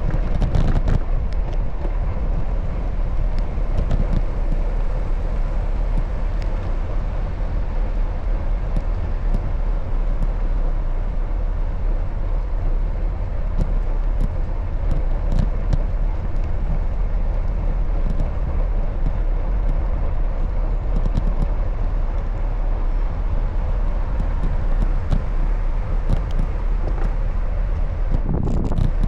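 Steady wind and road rush on the microphone of a moving bicycle, with motor traffic, strongest as a low rumble, and scattered sharp clicks and rattles.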